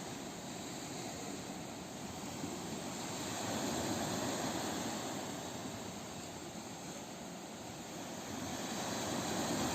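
Ocean waves breaking and washing on a shore, a steady rush of surf that swells about four seconds in and builds again near the end.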